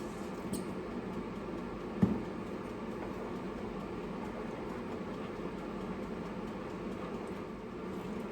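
Steady fan hum of a running kitchen appliance. A single low thump comes about two seconds in, like something set down on the counter.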